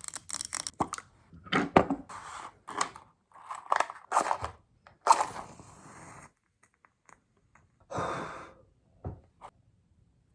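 A run of short rustles, taps and scrapes of things being handled for about six seconds, then mostly quiet apart from one longer rustle about eight seconds in.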